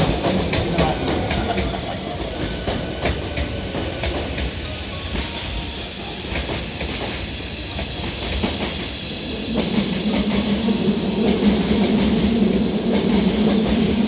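A Hankyu 7000 series electric train pulling out, its wheels clicking irregularly over the rails and points under a steady running noise with a thin high whine. It grows louder about two-thirds of the way in, as a low hum joins it.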